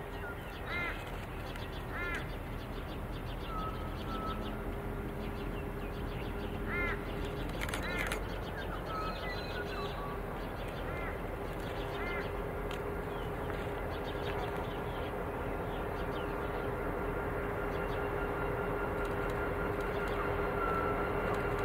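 Birds calling with harsh caws a handful of times in the first half. Under them, the steady drone of a diesel-hauled freight train approaching slowly grows gradually louder.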